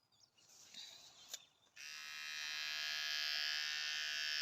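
Electric animal hair clipper switched on a little under two seconds in, then running with a steady high buzz, after a faint click and rustling.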